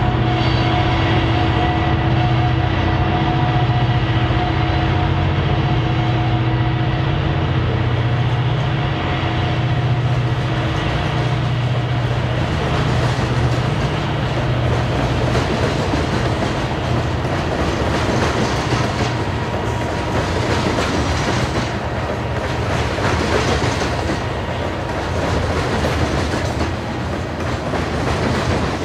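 Diesel-hauled freight train passing: the steady drone of the locomotives gives way, about a third of the way in, to the rhythmic clickety-clack of covered hopper cars rolling over the rails.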